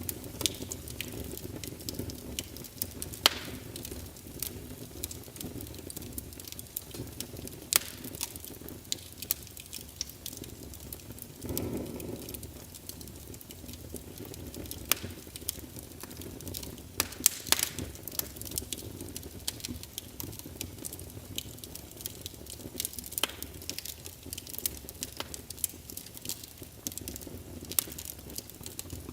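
Wood fire burning in a fireplace, crackling with irregular sharp pops over a steady low rumble of the flames, with a brief low whoosh about twelve seconds in.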